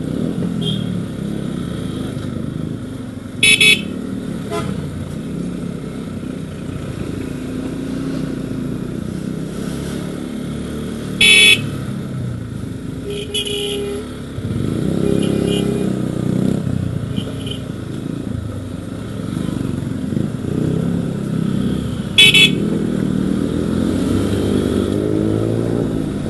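Motorcycle engine running steadily while riding, with three short, loud horn blasts spread through and a few fainter horn toots between them.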